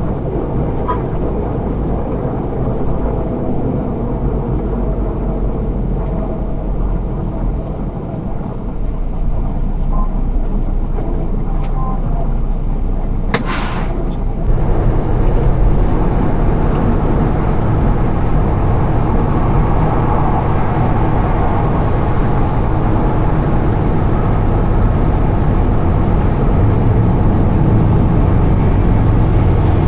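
Semi-truck diesel engine running, a steady low rumble as heard from the cab. A short burst of noise about 13 seconds in, after which the engine is somewhat louder.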